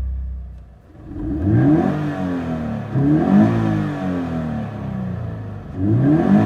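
Toyota 86 (ZN6) FA20 flat-four engine and exhaust, idling and then blipped three times, each rev rising quickly and falling back.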